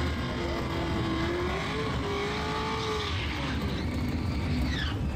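Car engines running at a drag strip: a steady low rumble, over which one engine note climbs slowly and then drops away about three seconds in.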